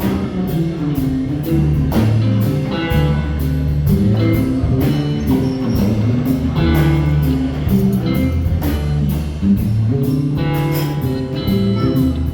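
Instrumental band music with guitar and drums, a steady beat over a moving bass line.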